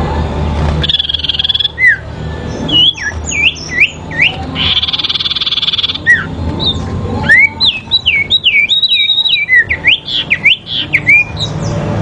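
Sirpu songbirds calling in a song duel: rapid runs of sharp, down-slurred whistled notes, twice broken by a harsh buzzy rattle. A low hum sits under the first second.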